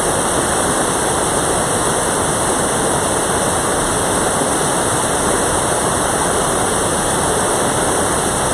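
Mountain valley stream water rushing, a loud, steady, unbroken rush.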